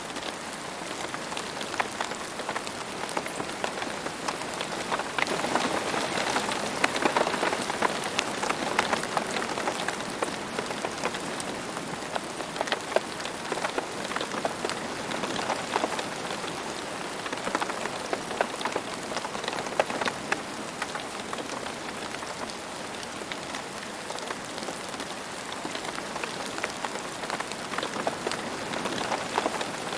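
Steady rain falling, a continuous hiss with many individual drops pattering and clicking, a little heavier for a few seconds early on.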